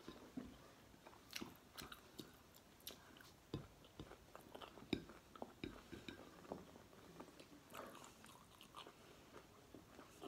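Close-up chewing and crunching of fried galunggong (round scad), eaten by hand: quiet, irregular crunches and mouth clicks, several a second.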